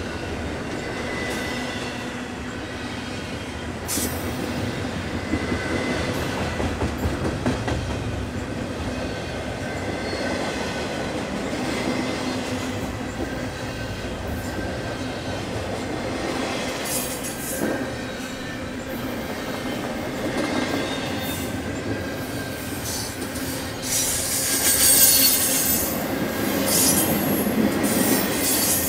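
Double-stack intermodal freight cars rolling past: a steady rumble of steel wheels on the rails, with thin wheel squeal and occasional knocks. The squealing grows louder near the end.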